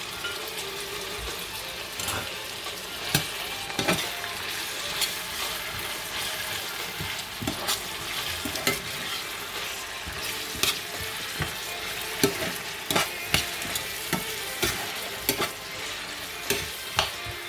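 Chopped onion, bell peppers and carrot frying in hot oil, a steady sizzle, with a spoon knocking and scraping against the pot at irregular moments as they are stirred.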